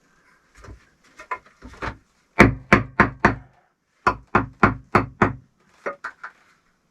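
Bricks being tapped down into clay as a stove is laid: lighter taps, then four hard knocks about three a second, a short pause, and five more, with a few light taps near the end.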